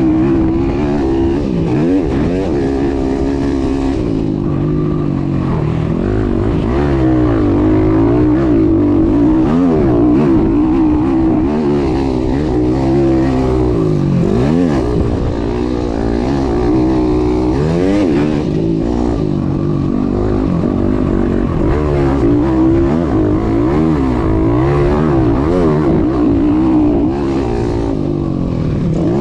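YCF 190 pit bike's four-stroke single-cylinder engine running hard, its pitch repeatedly rising and falling as the throttle is opened and closed around the track, heard close up from the rider's chest.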